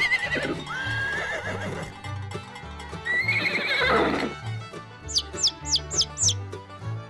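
An equine whinny, twice: each call wavers high and then falls away, over background music with a steady bass beat. From about five seconds in, a quick run of short, high, falling chirps, about three a second.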